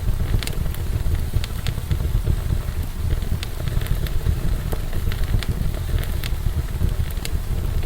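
Wood fire burning in a fireplace: frequent sharp crackles and pops, several a second at irregular spacing, over a steady low rumble of the flames.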